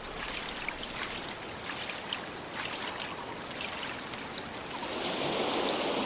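Running water, a stream trickling steadily and growing louder near the end, with faint short chirps scattered through it.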